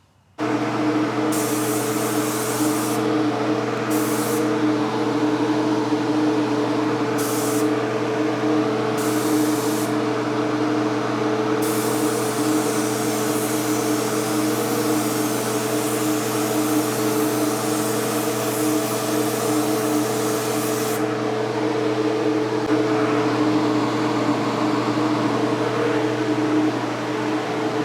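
Mini spray gun hissing as it sprays paint: four short bursts, then one long pass of about nine seconds. A steady machine hum runs underneath throughout.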